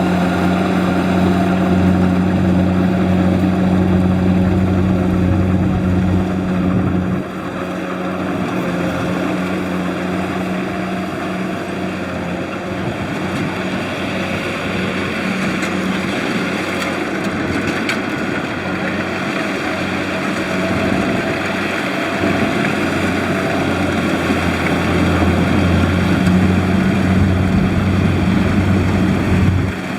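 Kubota DC-70 combine harvester's diesel engine running steadily under load, with a broad mechanical rush from the machine. The engine hum dips about seven seconds in and builds back up near the end.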